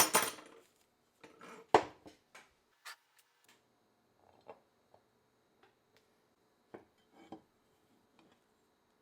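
Small metal parts and tools clinking and knocking as they are handled on a hard surface: a loud clatter at the start, a sharp knock just under two seconds in, then scattered light taps and clicks.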